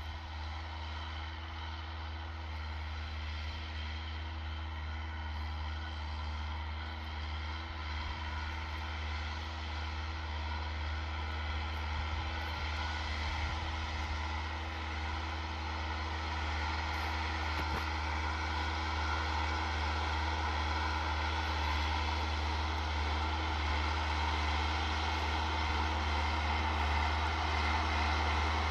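Massey Ferguson 3080 tractor's diesel engine running with a steady drone, growing gradually louder.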